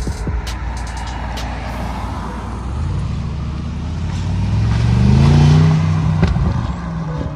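Mercedes-AMG GLE63S twin-turbo V8 revving up, its pitch climbing over a couple of seconds to a peak and then dropping away, with a few sharp cracks in the first second or so.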